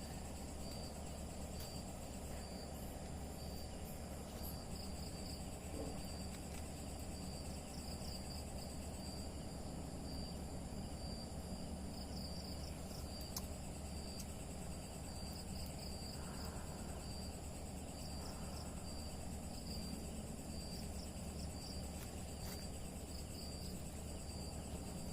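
Insects calling steadily in the forest, a high trill that pulses on and off, over a steady low background hiss.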